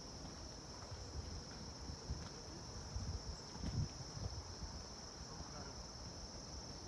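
Insects chirring in a pine forest: a steady, unbroken high-pitched drone, with low rumble of wind on the microphone and a brief thump about halfway through.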